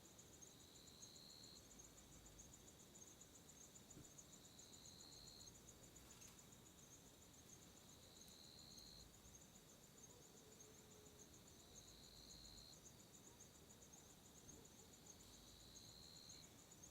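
Faint night insect chorus: a continuous rapid high trill, with a lower call about a second long that comes back about every four seconds.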